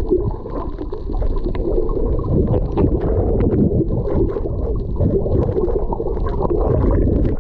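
Water heard through a camera held underwater over a shallow coral reef: a loud, muffled, churning rumble and gurgle, with many small clicks and crackles scattered through it.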